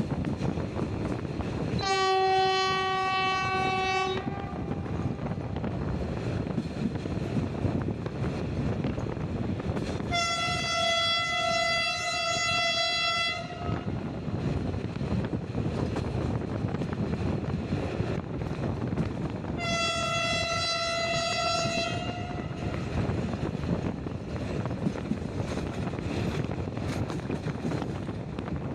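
Diesel locomotive horn sounding three held blasts, the first lower in pitch than the two that follow, over the steady rumble of the train running. Wind rushes past the open coach window.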